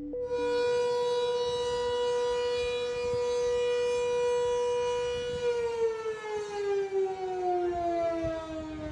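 Civil defense warning siren sounding for an evacuation. It holds one steady wailing tone, then from about five seconds in it falls steadily in pitch as it winds down.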